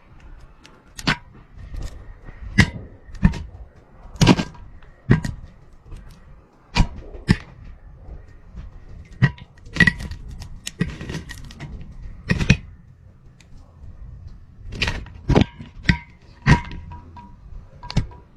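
A GoPro camera on a string knocking against the inside of a narrow pipe: irregular sharp clunks, one every second or so, over a faint steady whine.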